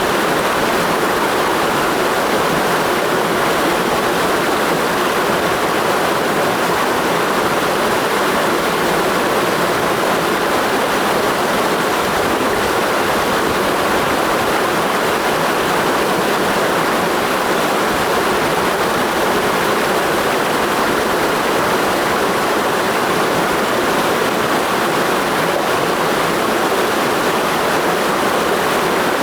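Clear mountain stream rushing over rocks in a gorge: a steady, even rush of water that does not change.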